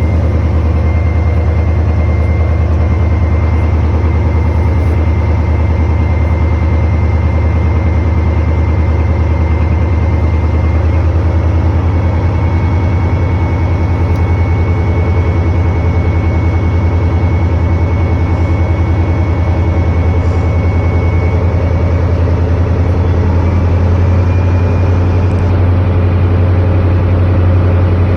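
Boat engine running steadily at a constant speed, loud and even with a strong low hum throughout.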